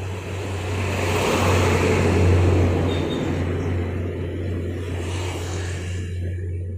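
A vehicle passing close by over a steady low hum, swelling to its loudest about two seconds in and then easing off.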